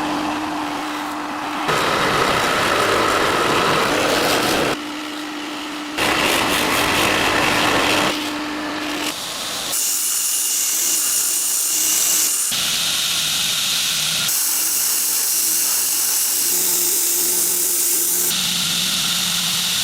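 Workshop power tool running, loud and noisy, in several stretches that change abruptly, some with a steady motor hum and later ones mostly a high hiss.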